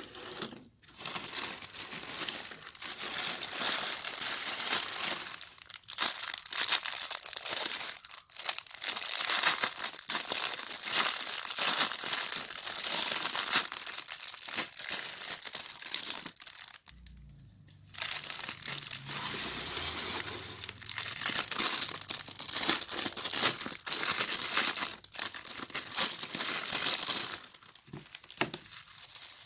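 Parcel packaging being crumpled and torn open by hand: continuous crinkling and ripping that pauses briefly a little past halfway.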